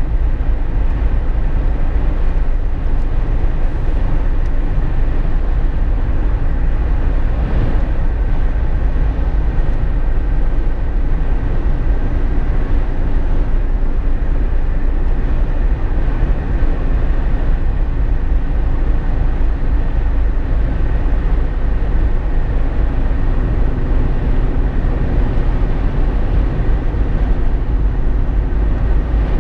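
Steady road noise inside a moving Jeep Wrangler JK's cabin: a heavy low rumble from the drivetrain and tyres on the road, with faint steady hums and a wash of wind noise, holding even throughout.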